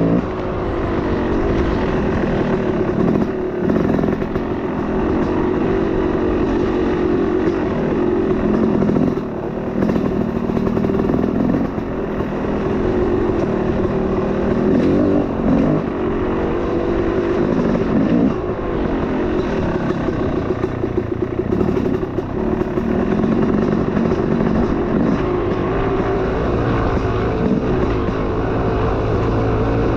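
Small off-road vehicle engine running under changing throttle, its pitch rising and falling several times as it slows and picks up speed.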